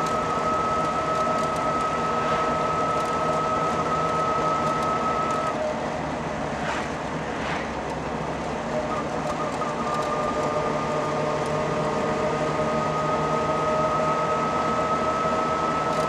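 Trabant P 601's air-cooled two-stroke two-cylinder engine running at a steady cruise, with road noise, heard from inside the cabin. The engine's steady note drops away about five seconds in and comes back about nine seconds in.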